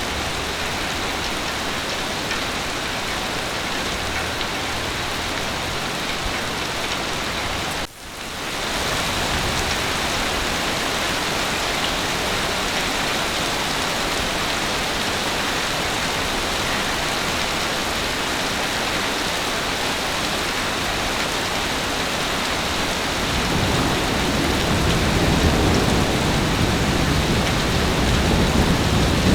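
Heavy rain falling steadily, a dense even hiss. It cuts out for a split second about eight seconds in, and a low rumble of thunder builds over the last few seconds.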